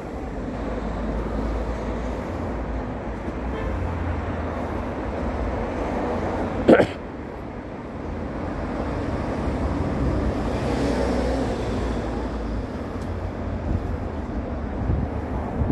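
A vehicle runs steadily with a low rumble and road noise, and there is a single sharp knock or thump about seven seconds in.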